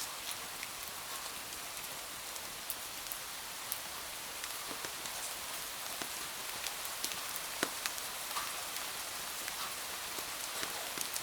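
Steady rain, an even hiss scattered with many short, sharp, irregular ticks of drops striking.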